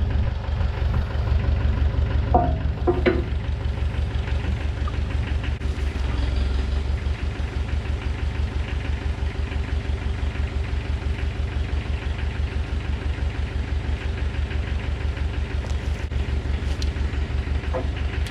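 Heavy-equipment engine idling steadily, with an even low pulse.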